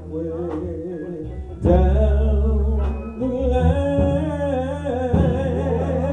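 Live gospel music: a song with singing, guitar and a heavy bass line, swelling louder about two seconds in.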